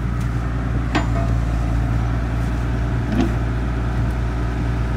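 Engine of the drilling outfit running steadily, a low even drone, with two light knocks of metal gear, about a second in and about three seconds in.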